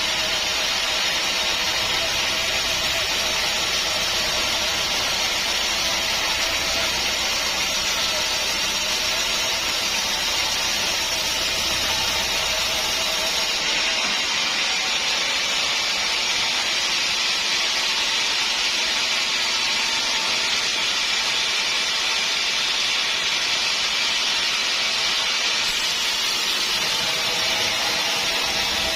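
Sawmill saw running through a log as a steady, even noise that does not pause or change.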